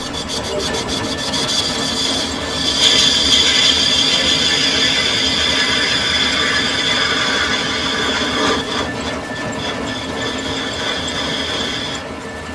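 Metal lathe running with a cutting tool turning a metal part. A steady high-pitched cutting squeal with rasping comes in about three seconds in and stops suddenly near the end.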